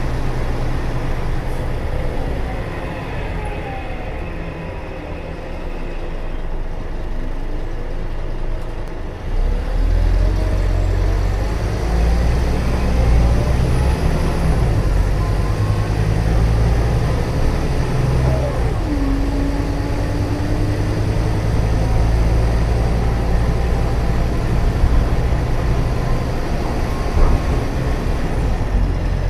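Scania K320UA bus's rear-mounted DC09 9.3-litre five-cylinder turbo diesel running. It is lighter for the first several seconds, then much louder and deeper from about nine seconds in as it works under power, its pitch rising and falling.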